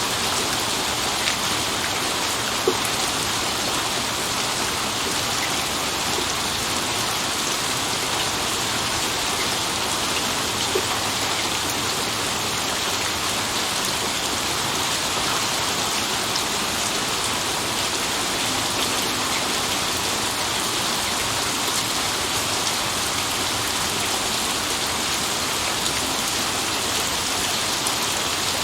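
Steady, even rain falling on hard surfaces, with a few individual drops ticking now and then and no thunder.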